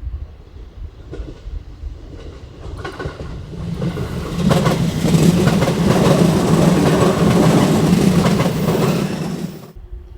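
An electric multiple-unit train running through the station, wheels clattering over the rail joints. The sound builds up over the first few seconds, is loud for about five seconds, then cuts off abruptly near the end.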